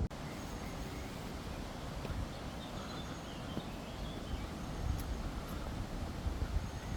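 Outdoor ambience: a steady low rumble of traffic from the nearby M1 motorway, with a few faint bird chirps over it.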